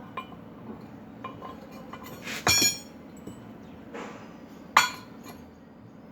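Metal clanking: a few light clinks, then two loud ringing clanks of steel struck or knocked together, about two seconds apart.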